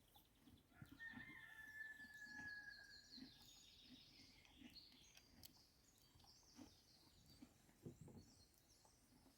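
Faint outdoor ambience of birds calling and chirping, with one long, slightly falling note about a second in. Under it run soft, regular low thuds about twice a second.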